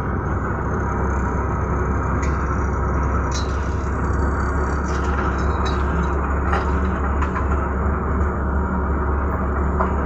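Rice combine harvester's diesel engine running steadily with a deep, constant rumble, with a few light clicks and rattles from the machine over it.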